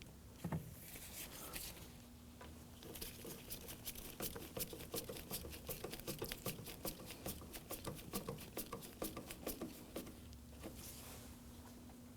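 Screwdriver driving door-panel screws in by hand: a run of faint, quick, irregular clicks lasting several seconds.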